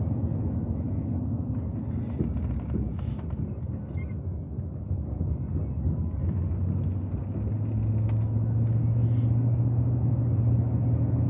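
Car engine and road noise heard from inside the vehicle's cab: a steady low rumble, with a low drone that grows louder about eight seconds in.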